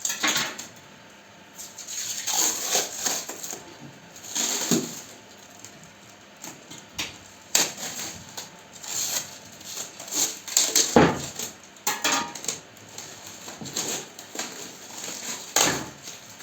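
Things being handled at close range: irregular rustles, knocks and light clinks.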